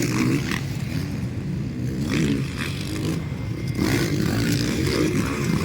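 Motocross dirt bike engines revving, their pitch rising and falling as the riders work the throttle.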